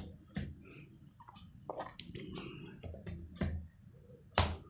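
Typing on a computer keyboard along with mouse clicks: irregular single taps and short runs of keystrokes, with one louder click near the end.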